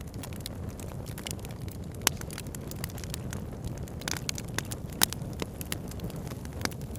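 Campfire crackling, with sharp irregular pops, the loudest about two and five seconds in, over a steady rushing of river water.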